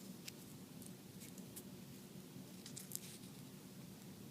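Faint, scattered crinkles and light clicks of a small folded paper slip being handled, over a steady low hum.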